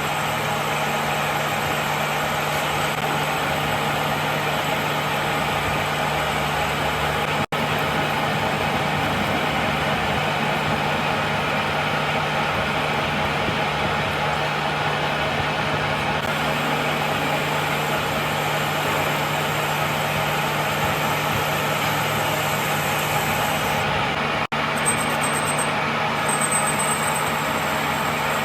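Workshop machinery running steadily: a constant motor hum under an even hiss, cut off abruptly twice for a moment.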